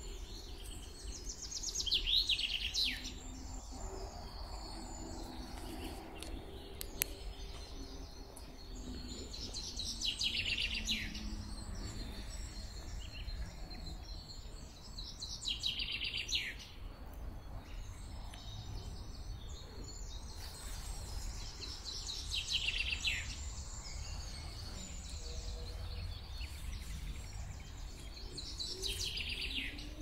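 A songbird singing the same short phrase five times, a quick run of notes that falls in pitch, each phrase a second or two long and several seconds apart, over a steady low background rumble.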